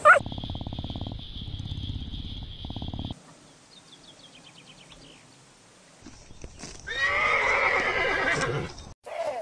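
A horse whinnying: one long, wavering neigh of nearly two seconds, the loudest sound, in the second half. Before it, a short high call and a low, rapid rumble, then a quiet stretch with faint chirps.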